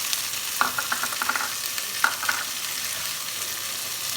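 Chopped vegetables sizzling in hot oil in a pressure cooker, a steady hiss, with short clusters of light clicks and scrapes from the pieces and a spoon about half a second in and again about two seconds in.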